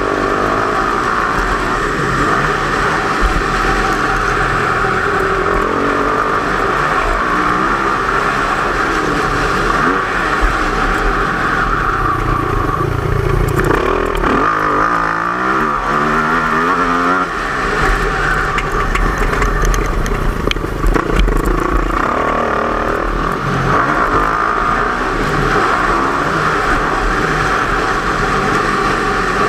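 Motocross bike engine running hard and revving up and down, with a clear run of rising and falling revs around the middle.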